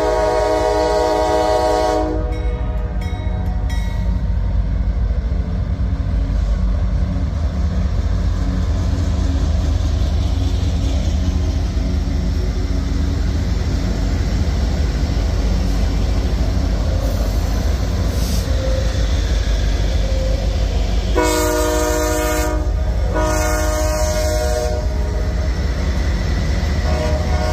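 Norfolk Southern diesel freight locomotives passing close by on street trackage, with a steady deep rumble. The locomotive air horn is blowing at the start and stops about two seconds in. It gives two more blasts a little over three quarters of the way through and starts another just before the end.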